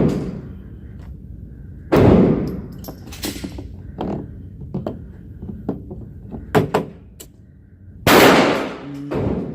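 Two single gunshots about six seconds apart, each trailing off for about a second, with light clicks and clatter between them.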